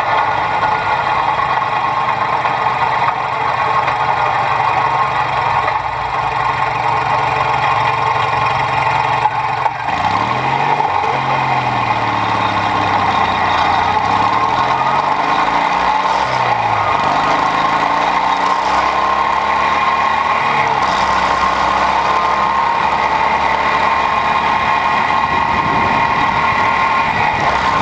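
Lawn tractor engine running hard, heard close up from a camera mounted on the machine's bumper, with a steady loud drone. Between about a third and two thirds of the way through, the engine pitch rises and falls several times as the machine speeds up and slows.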